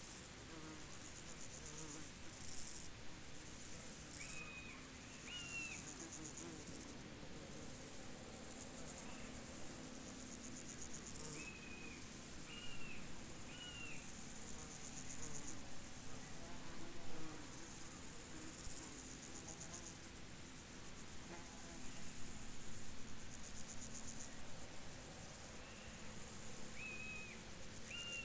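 Field insects chirping in fast, high, pulsed trills that swell and fade in turn. Short high chirps from a bird come every several seconds, in groups of two or three, over a faint steady low hum.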